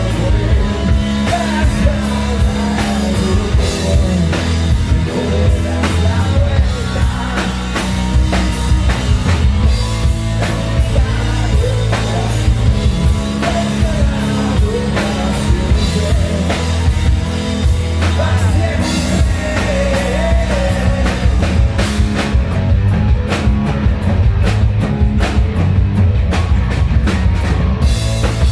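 Live melodic hard rock band playing a song: drum kit driving a steady beat under guitars and bass, with a voice singing the melody.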